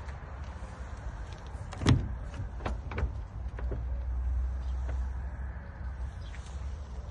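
A few sharp clicks and knocks, the loudest about two seconds in, over a steady low rumble.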